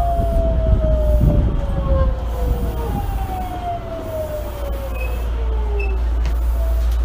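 Osaka Municipal Subway 66 series train heard from inside the car, its VVVF inverter motor whine falling in pitch twice over low wheel and rail rumble as the train slows.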